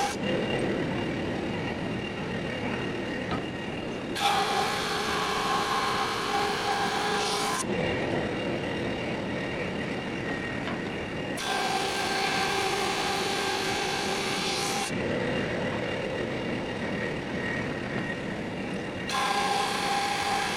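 Drum sander running, a steady machine noise with a held tone as boards are sanded. The sound shifts abruptly between a duller tone and a brighter, hissier one every three to four seconds.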